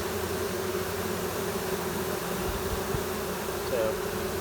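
A newly hived honey bee swarm buzzing, a steady drone at one pitch, with a single bee passing close near the end. Bees at the edges of the box are fanning, a good sign that the swarm knows where its queen is.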